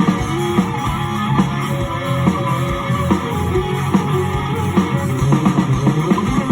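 Live music practice led by a guitar playing plucked melodic notes over sustained low bass notes.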